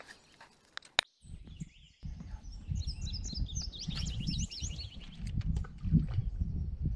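A small bird singing a quick run of high chirps, about three seconds in, over a steady low rumble. A single sharp click comes about a second in.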